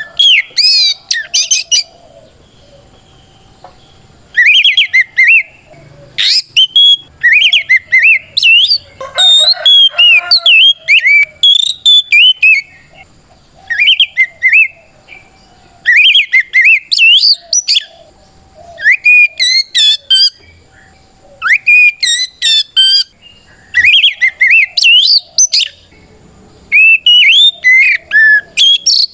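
Oriental magpie-robin (kacer) singing a loud, clear challenge song, as if calling out a rival male: phrases of rising and falling whistles and quick chattering notes, each lasting a second or two, with short pauses between.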